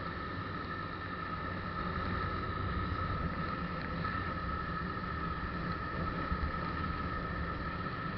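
Vehicle driving along at steady speed, heard from inside: a steady engine drone with tyre and road noise and a steady high whine.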